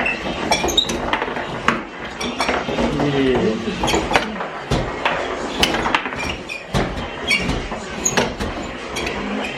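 Indistinct voices of several people talking in a room, with frequent sharp knocks and clinks throughout.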